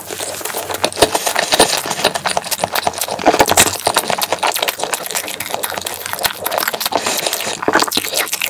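Close-miked chewing of a mouthful of chocolate crepe cake and cream, a dense run of small irregular mouth clicks.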